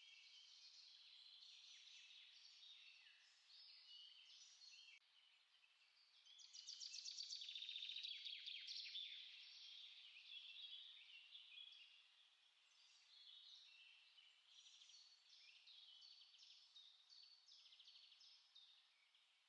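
Small songbirds chirping and singing, many short overlapping phrases, with one louder rapid trill for a few seconds around the middle.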